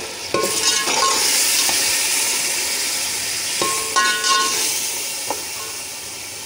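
Spiced tomato and chilli masala sizzling in oil in a steel pot while a metal spoon stirs it, scraping and knocking against the pot a few times with a brief metallic ring. The sizzle comes up about half a second in and slowly fades.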